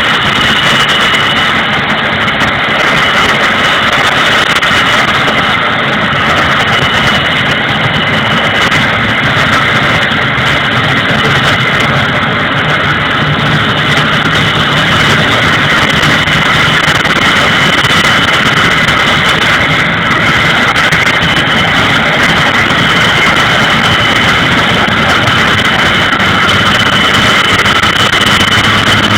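Vickers Vanguard's Rolls-Royce Tyne turboprop engines running steadily on the ground, a loud rushing roar with a constant high-pitched turbine whine.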